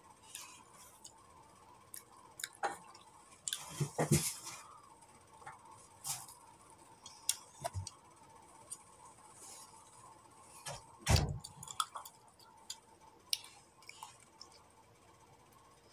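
Close-up mouth sounds of a person eating soft, juicy fruit: irregular wet chewing, lip smacks and small clicks, with two louder noises about four and eleven seconds in. A faint steady hum lies underneath.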